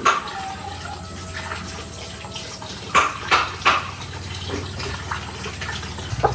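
Water running and splashing, with a few sharp knocks about three seconds in, over a steady low hum that steps up in pitch near the end.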